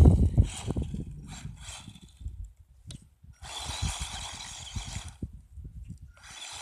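Electric RC truck (ECX Torment 4x4) driving in bursts: its motor runs with a steady high whine and hiss from about halfway through. The sound stops for about a second, then starts again near the end, with low knocks from the truck on the ground in between.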